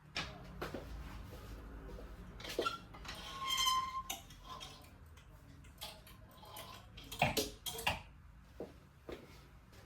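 Hard objects being handled, giving scattered clinks and knocks, with a short ringing squeak about three and a half seconds in and a sharper pair of knocks near the end, over a low steady hum.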